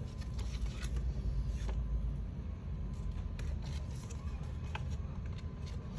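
Scattered light clicks and rustles from small craft pieces and packaging being handled, over a steady low rumble that is stronger in the first couple of seconds.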